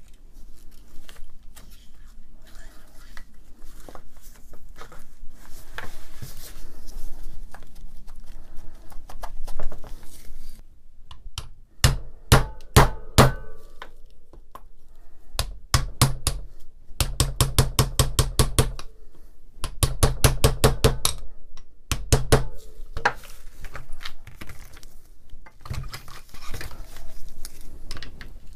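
Metal tool parts being handled and worked on a workbench during reassembly: scattered light clicks, then for about ten seconds loud sharp metallic clicks, some in quick runs of about ten a second.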